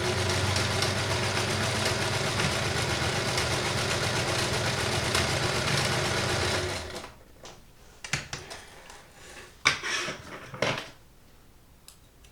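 Kenmore 158.19311 sewing machine running steadily, sewing a stitch with its width set wide, then stopping about seven seconds in. A few short clicks and knocks follow.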